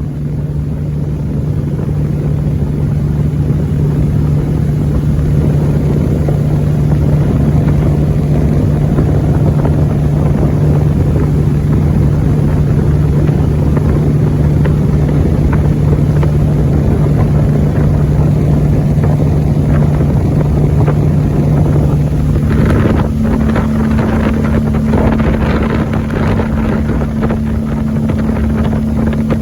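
A Judge Yachts 27 Chesapeake's engine runs steadily underway, with wind buffeting the microphone. About three-quarters of the way through, the engine note steps up in pitch and a louder rushing noise comes in, as the boat is throttled up.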